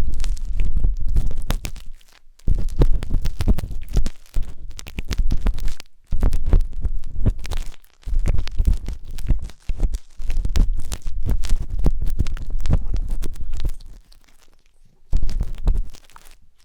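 Wooden skewer scraping and rubbing inside the silicone ear of a 3Dio binaural microphone, heard as dense scratchy clicks over a low rumble. It comes in strokes of a few seconds with short pauses, and a longer pause near the end.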